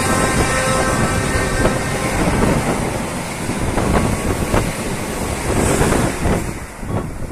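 A train passing close by: steady rolling rumble of wheels on rails, with sharp clacks as the wheels cross rail joints.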